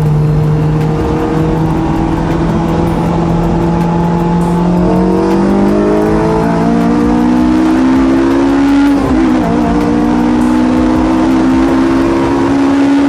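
Honda Integra Type R DC5's K20 four-cylinder VTEC engine under way. Its note holds steady, then rises in pitch as the car accelerates. About nine seconds in there is a brief dip for a gear change, then it climbs again in the next gear.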